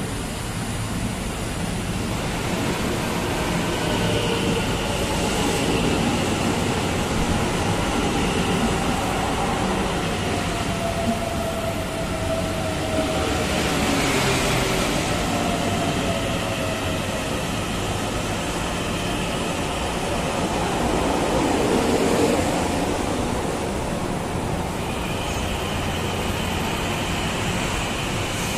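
Taiwan Railway EMU900 electric commuter train running, with a steady rolling rumble and a whine whose pitch slowly shifts up and down.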